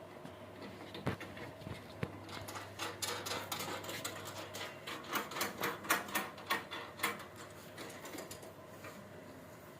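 A rapid, irregular run of light clicks and taps, thickest in the middle of the stretch and sparser towards the end.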